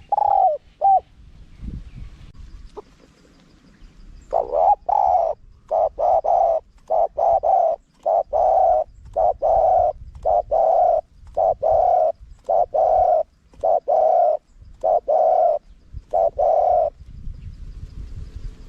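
Spotted dove cooing. A couple of short coos come at the start. From about four seconds in, a long run of repeated coo notes follows, grouped in twos and threes, and stops a little before the end.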